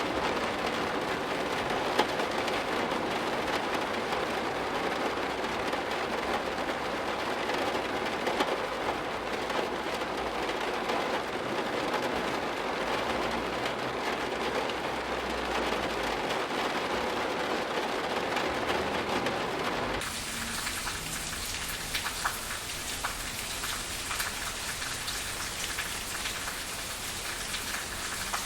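Steady rain falling, an even hiss with occasional sharper drop ticks. About twenty seconds in, the sound changes to a thinner, brighter patter with more distinct drops.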